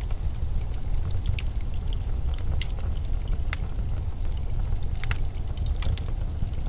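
Blizzard wind, a steady deep rumble, with scattered small sharp crackles over it.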